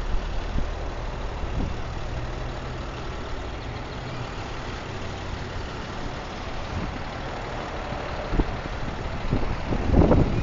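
Truck engine idling, a steady low hum that fades a few seconds in, with a few sharp knocks near the end.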